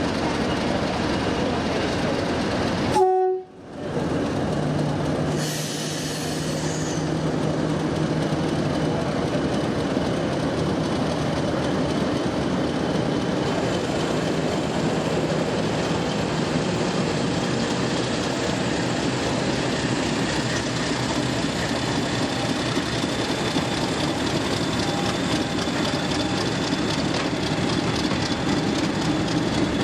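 Diesel locomotive running with its train, a steady engine and rail noise, with a brief horn blast about three seconds in.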